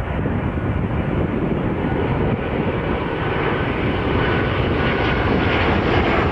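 Jet airliner passing on its landing approach: steady engine noise with a faint whine, getting slightly louder toward the end, with wind buffeting the microphone.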